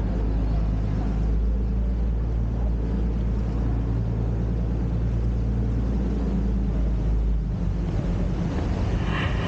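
Sightseeing boat's engine running steadily under way, a low drone with water and wind noise; the deepest part of the drone eases off about seven and a half seconds in.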